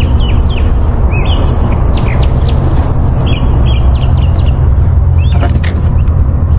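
Birds chirping, many short, quick up-and-down calls in a steady stream, over a loud, steady low rumble.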